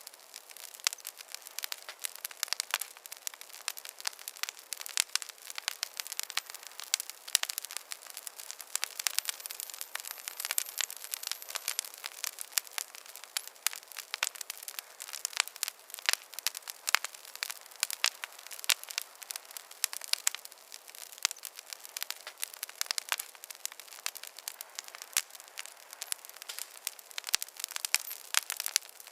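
Wood fire in a fireplace crackling, with dense, irregular sharp pops and snaps over a soft hiss.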